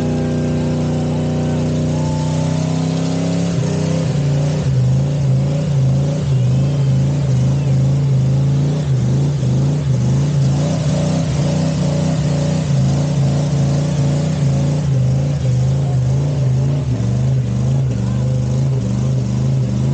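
Truck engine held at high, steady revs during a burnout. A few seconds in the pitch drops slightly and the note turns rougher, over a steady hiss.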